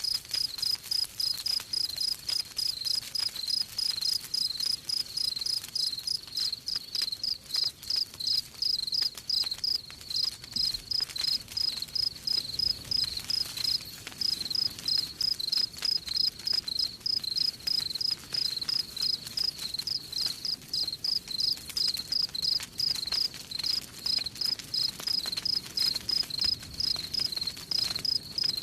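Crickets chirping in a steady, even rhythm, several high-pitched chirps a second, over the faint crackle of a campfire.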